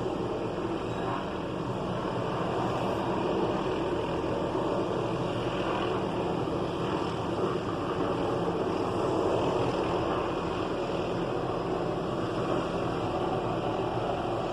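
Steady engine drone at an even level, with no sudden sounds and no clear rotor beat.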